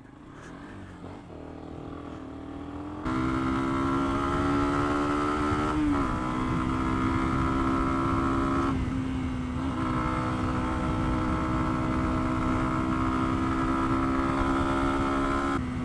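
Lexmoto Venom 125's small single-cylinder engine under way: it is quiet for the first three seconds, then the throttle opens and the engine holds a steady high drone. The pitch dips briefly about six seconds in and again around nine seconds, with wind rush underneath.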